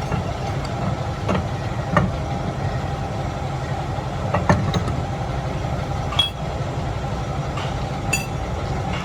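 Workshop machinery running steadily with a low hum, with a few sharp metallic clinks at irregular intervals.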